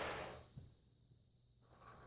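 Marx Big Rail toy train's running noise of motor and gears dying away to near silence about half a second in, with a faint click, then starting up again near the end.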